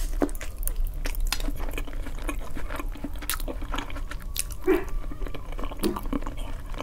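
Close-miked chewing of soft oven-baked eggplant with cheese: a steady run of small mouth clicks.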